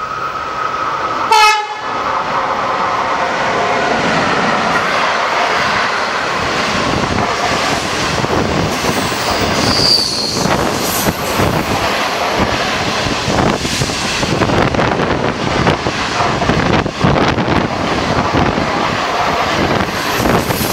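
A passenger train sounds a short horn blast about a second and a half in, then runs through at speed. The coaches rush past with a steady rattle and the clickety-clack of wheels over the rail joints.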